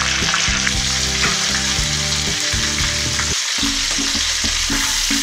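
Whole marinated chicken frying in hot oil in a pan, with a steady sizzle. About three and a half seconds in, it gives way to chopped green chillies sizzling in oil in a second pan.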